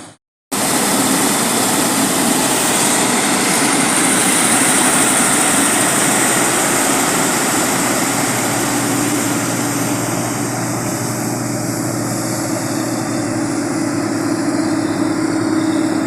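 Combine harvester running steadily while cutting and threshing wheat: a constant engine and machinery drone with a steady hum. A brief dropout at the very start.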